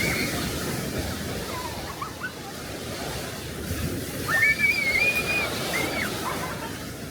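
Sea waves washing on the shore, with wind on the microphone. A high-pitched call, most likely a voice, is heard briefly at the start and again, longer and louder, about four seconds in.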